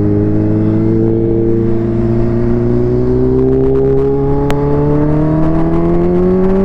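Supercharged Kawasaki Ninja H2 inline-four with a Vandemon exhaust pulling under acceleration, its engine note rising slowly and evenly.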